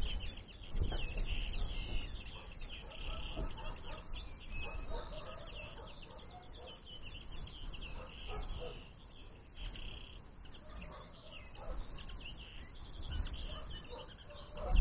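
Common linnets twittering: a dense, unbroken run of quick high chirps, with a low rumble now and then, strongest about a second in.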